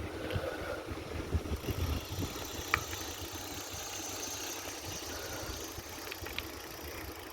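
Wind rumbling unevenly on the microphone during a bicycle ride, over a faint steady hiss, with a few light clicks, the clearest about a third of the way in.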